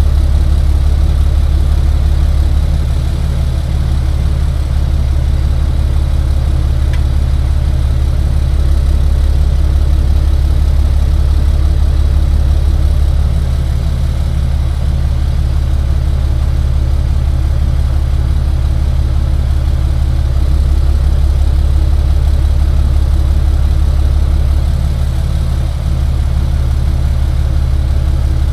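Tow truck's engine running with a steady low drone, its level dipping slightly a few times.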